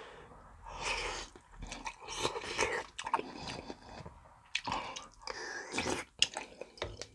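Close-miked chewing of dumplings and soup: wet, irregular mouth sounds with sharp little clicks.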